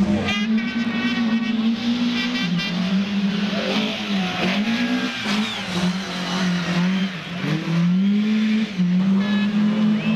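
Racing car engine revving hard, its pitch rising and dropping again and again as the driver works the throttle and gears.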